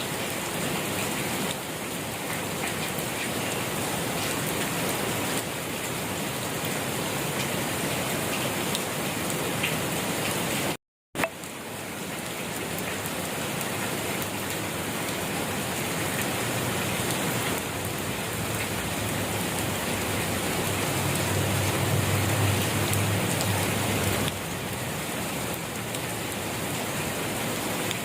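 Steady rain falling and pattering on surfaces, cut by a brief total dropout to silence about eleven seconds in. A low rumble swells for a few seconds about three-quarters of the way through.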